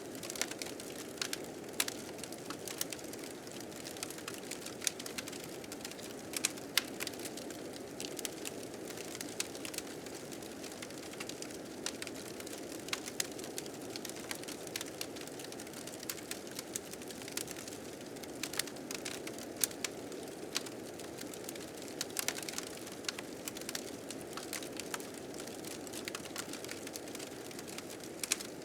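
A fire crackling, with frequent sharp pops and snaps, over a steady whoosh of blizzard wind.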